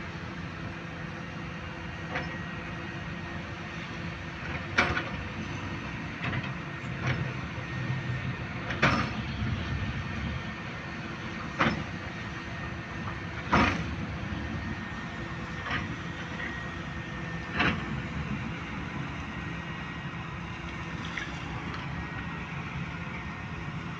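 Excavator diesel engine running steadily while loading a dump truck, with sharp clanks and bangs every few seconds from the bucket and the load, the loudest in the middle.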